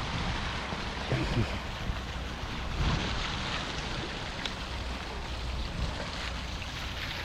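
Wind gusting over the microphone: a steady rushing noise with a low rumble that swells a little now and then.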